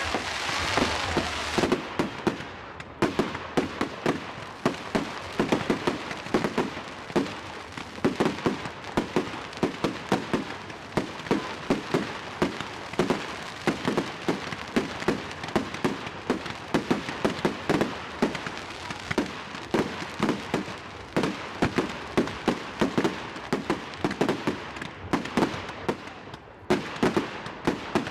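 Firework display: a rapid, continuous barrage of bangs and crackles, several a second, with a denser crackling hiss in the first two seconds.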